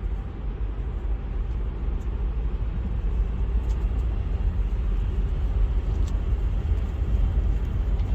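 Steady low rumble of a car driving, road and engine noise as picked up by a dashcam inside the car, with a few faint clicks.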